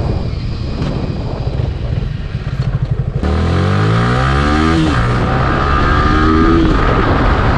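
Yamaha R15 V3's 155 cc single-cylinder engine running unevenly at low revs, then about three seconds in the motorcycle accelerates hard: the engine note climbs, drops once at a gear change, and climbs again.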